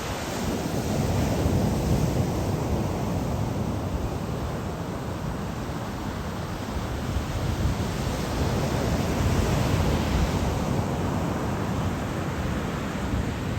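Ocean surf at the shore: a steady rushing wash that swells and eases, with wind rumbling on the microphone.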